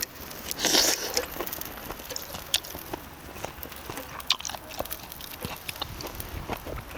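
Chewing and biting sounds of someone eating charcoal-grilled duck, with scattered small clicks and one short louder noise about a second in.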